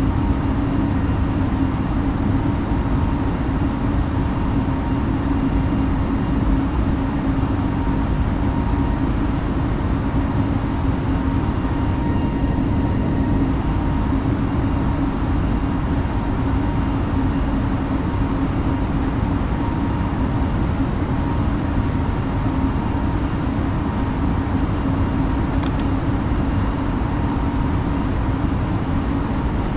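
Steady drone inside the cabin of an Airbus A320neo airliner: even engine and air noise with a low hum.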